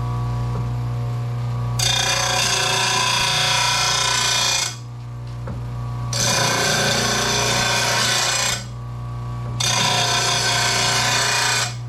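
RBG 712 mower blade sharpener running with a steady hum, while a mower blade is ground against it three times, each a harsh grinding rasp of two to three seconds with short pauses between.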